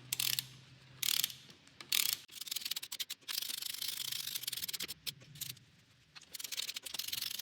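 Ratchet wrench clicking as the LS3's valve cover bolts are tightened: a few short runs of clicks at first, then longer stretches of rapid ratcheting a couple of seconds in and again near the end.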